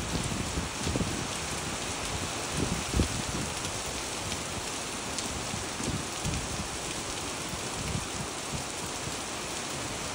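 Rain falling on wet pavement and puddles: a steady splashing hiss with irregular dull thumps, the loudest about three seconds in.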